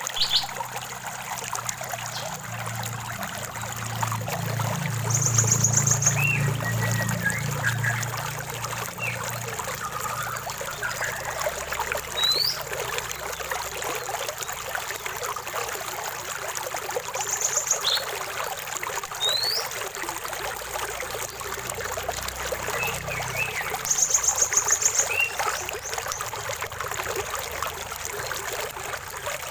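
Running water trickling and splashing steadily, with birds singing over it: a short, fast, high trill three times and a few rising whistled notes and chirps.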